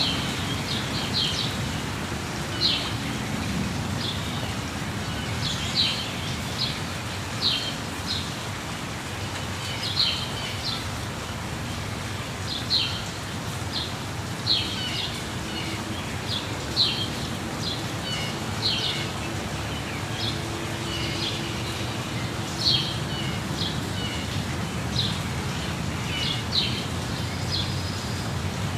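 Birds chirping over the steady rush of a waterfall: short high chirps every second or two above an even wash of falling water.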